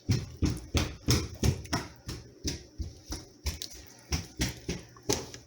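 A utensil stirring shredded chicken in thick barbecue sauce in a crockpot, knocking and scraping against the pot in a quick, uneven rhythm of about three knocks a second.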